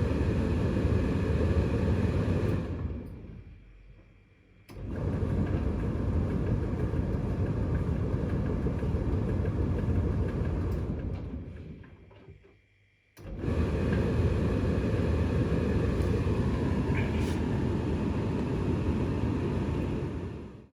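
Siemens Extraklasse XLS 140 A washing machine running with a steady low rumble. The rumble dies away twice and starts again abruptly, then stops at the end.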